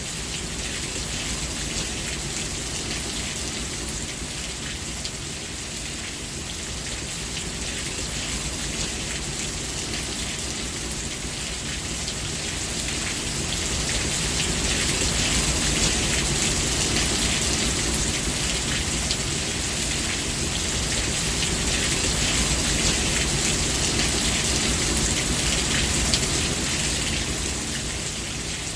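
Steady heavy rain, an even hiss of drops with a low rumble underneath, swelling louder about halfway through and easing back near the end.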